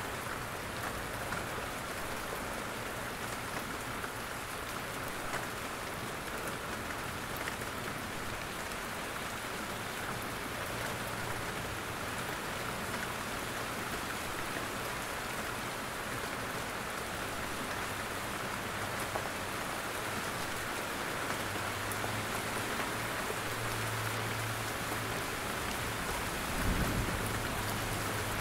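Steady rain falling in a forest, drops pattering from the trees. A low rumble builds in the second half, with a short low thump near the end.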